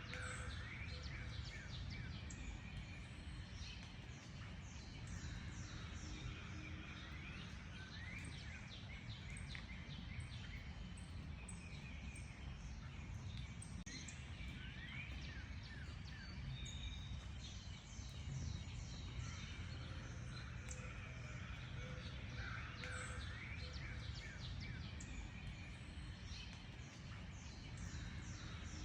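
Many wild birds singing and calling together: dense, overlapping chirps, whistles and quick rising notes, with a steady low rumble underneath.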